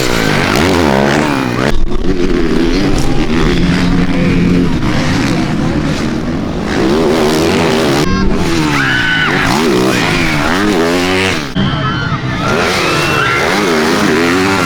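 Motocross bike engines racing, the pitch rising and falling again and again with the throttle, at times two engines at once.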